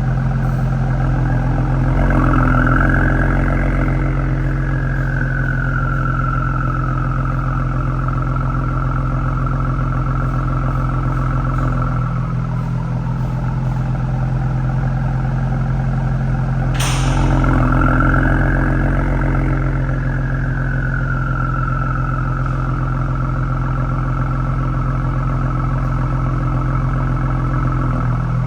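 Ford Explorer ST's twin-turbo 3.0 V6 idling warm through SPD downpipes and a true 3-inch Thermal R&D exhaust: a steady, deep idle note. Twice, about 2 seconds and about 17 seconds in, it briefly swells, with a higher whine that rises and then slowly settles. A single sharp click comes just before the second swell.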